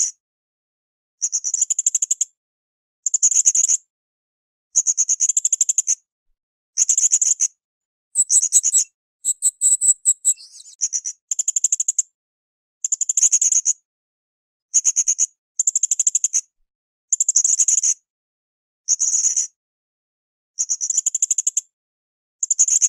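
Blue-crowned hanging parrot (srindit) calling in short bursts of rapid, high-pitched chittering notes, one every second and a half to two seconds with silent gaps between. A longer, more varied run of notes comes about eight to eleven seconds in.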